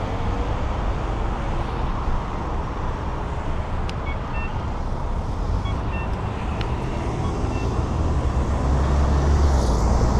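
Steady urban traffic and road noise heard from a moving bicycle, with a motor vehicle's low rumble growing louder near the end. A few faint short high chirps sound in the middle.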